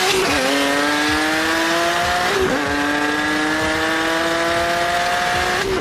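A car engine at full throttle, its pitch climbing steadily through each gear, with upshifts just after the start, about two and a half seconds in and again near the end. A steady rushing noise of wind and road runs underneath.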